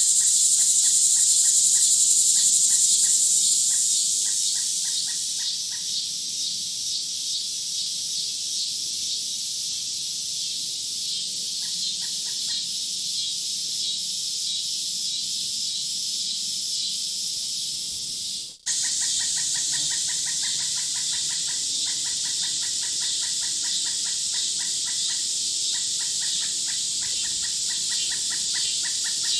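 Outdoor nature ambience: a dense, high, steady chorus of insects with rapid rhythmic chirping pulses beneath it. About two-thirds of the way through the sound briefly drops out and resumes with a slightly different texture.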